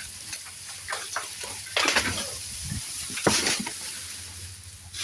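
A felled tree coming down: branches and leaves crackle and rustle, with two louder crashes about two and three and a half seconds in.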